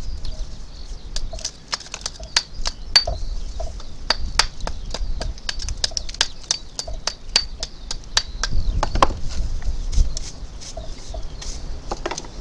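A quick, irregular run of sharp clicks and taps over faint bird chirping, with a low rumble swelling about nine seconds in.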